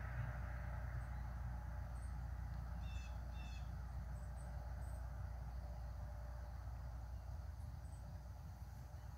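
Outdoor ambience: a steady low rumble, with a bird giving two short harsh calls in quick succession about three seconds in and a few faint high chirps here and there.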